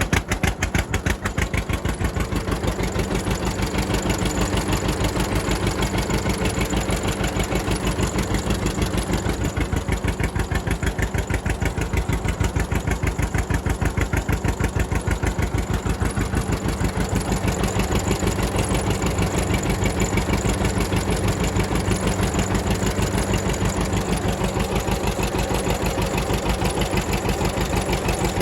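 1954 John Deere 60's two-cylinder engine running with a steady, even pulse of exhaust beats, just after a cold start in extreme cold.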